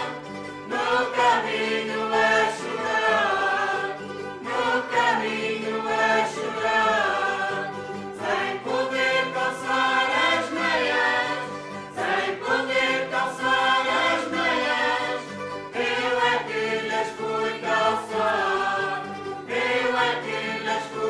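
A choir singing slow sustained phrases, each lasting about four seconds with short breaks between them.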